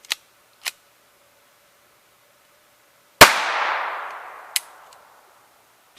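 A Walther P22 .22 LR pistol fires a single shot, with a ringing echo that fades over about two seconds. A sharp click follows about a second later, and two faint clicks come before the shot.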